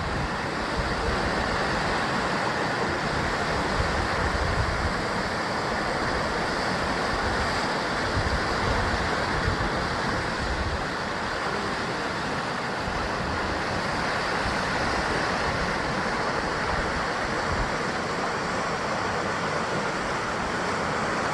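Sea surf breaking and washing against a rocky basalt shore: a steady, dense rush of water with low surges swelling now and then.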